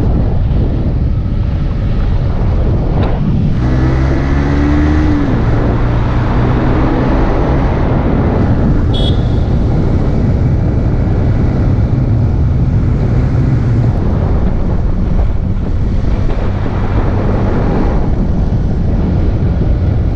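Motorcycle engine running steadily under way, with heavy wind noise on the microphone. The engine note shifts briefly about four seconds in.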